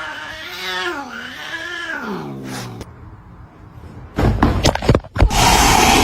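A cat's long, drawn-out yowl that wavers in pitch and then slides down, lasting about three seconds. About a second later come loud noise and several sharp knocks, followed by a steady rushing noise.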